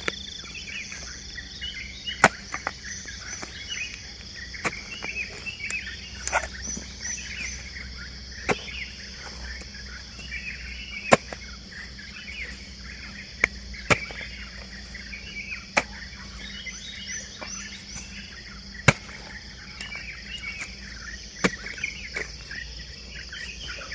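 A garden hoe chopping into soil, with about ten sharp strikes a few seconds apart. Birds chirp constantly behind it over a steady high insect drone.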